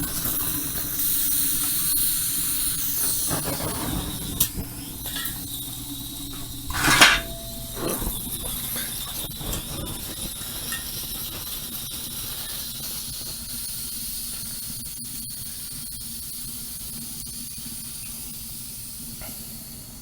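Steady high hissing rush from a freshly lit rocket stove's fire, slowly fading, with a single sharp knock about seven seconds in.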